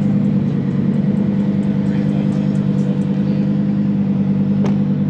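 Car engine idling steadily with a constant low hum. A single sharp click comes near the end.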